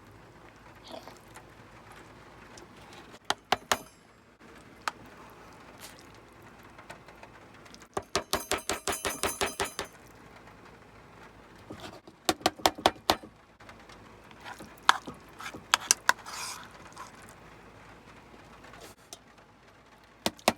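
Metal cutlery clinking and scraping against plates and a cooking pot in short irregular clatters while a meal is dished up and eaten, with a quick run of rapid scrapes about halfway through.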